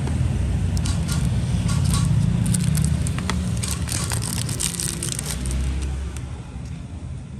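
Crackling and a run of sharp clicks as a Zippo lighter and its box are handled, over a steady low background rumble.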